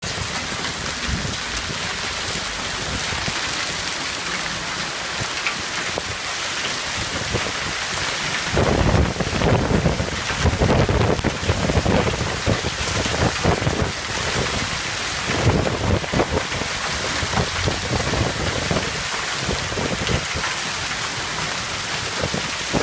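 Violent thunderstorm downpour of rain and hail, a dense steady hiss on the road and pavement. Through the middle it grows heavier and gustier, with deep rumbling.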